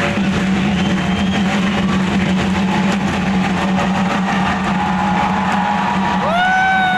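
Dense crowd noise over a steady low hum. Near the end a single voice starts a long drawn-out shout that rises, then holds one pitch.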